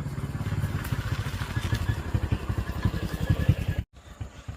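Motorcycle engine running close by, growing louder, then cut off abruptly about four seconds in.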